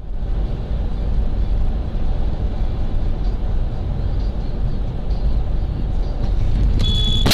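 Steady low rumble of a car driving, road and engine noise picked up by a dashcam microphone. Near the end a thin high steady tone and a brighter hiss come in.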